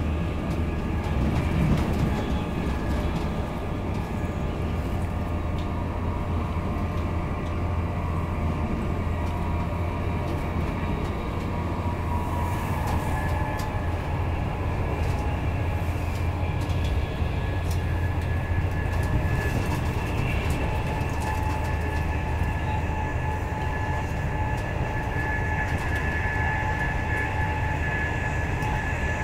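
Steady low rumble of an InterCity 225 Mark 4 passenger coach running at speed, heard inside the saloon, with faint steady whining tones over it.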